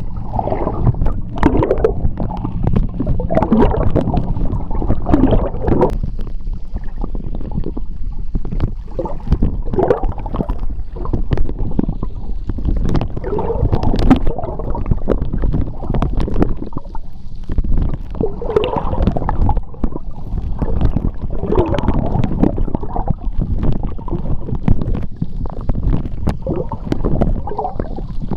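Seawater heard from a microphone held underwater: a continuous low, muffled rumble of moving water with gurgling bubbles coming and going and scattered sharp clicks and crackles.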